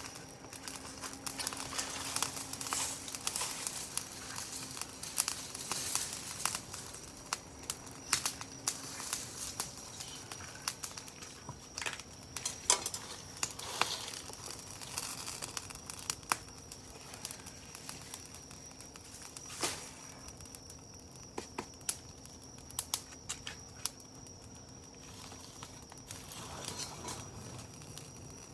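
Wood fire crackling, with irregular sharp pops and snaps from the burning wood.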